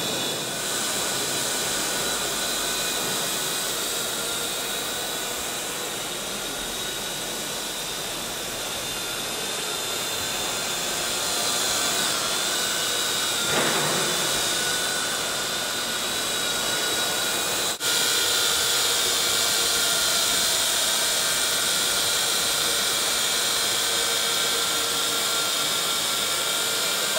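Parrot AR.Drone quadcopter's four electric motors and propellers running in flight: a steady whine with several held tones over a hiss, with a brief surge about halfway through and a single sharp click later on.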